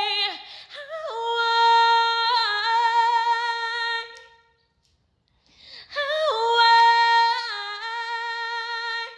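A woman singing unaccompanied: two long, wordless held notes with vibrato, separated by a short pause about halfway through.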